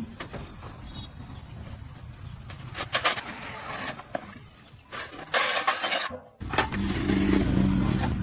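Loud hissing bursts over a low rumble, then after a sudden break a motor running steadily from about six and a half seconds in.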